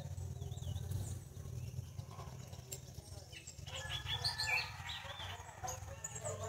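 Birds chirping and calling, a few scattered chirps at first, then a busier run of calls from about four seconds in, over a steady low hum.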